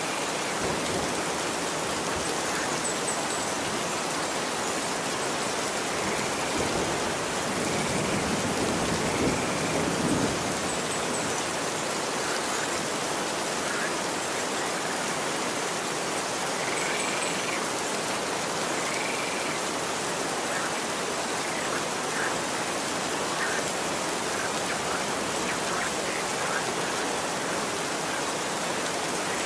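Steady rain falling on a street: an even hiss, swelling slightly about a third of the way in.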